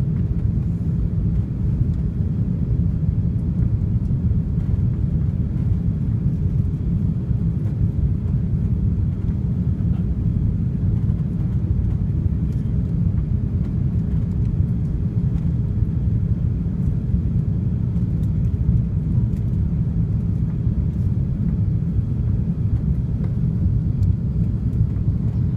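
Airbus A380 cabin noise heard from the upper deck: a steady low rumble of the engines and airflow with a faint hum, unchanging throughout.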